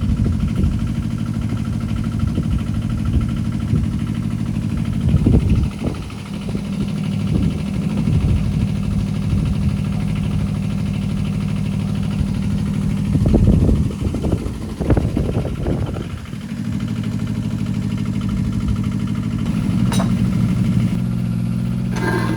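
Kubota KH-007 mini excavator's diesel engine running steadily, with two louder, rougher spells about five seconds in and again around thirteen to sixteen seconds in.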